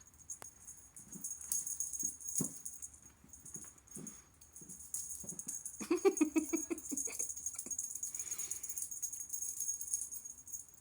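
Kittens playing, with a rattling toy shaken about and scattered light knocks. A short pitched call comes about six seconds in.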